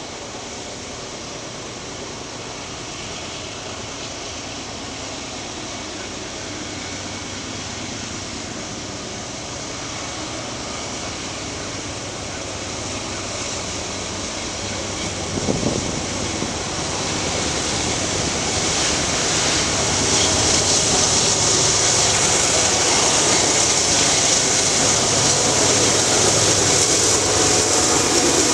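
Norfolk Southern freight train approaching, its diesel locomotives and rolling noise growing steadily louder, with a single knock about halfway through.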